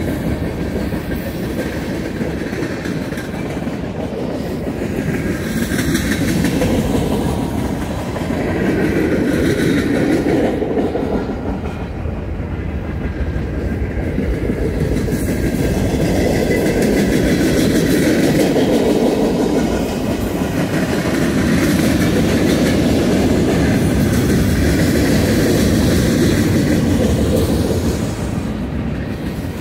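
Freight cars of a Union Pacific mixed freight train rolling past at a grade crossing: a steady, loud rumble of steel wheels on rail that swells and eases every few seconds as the cars go by.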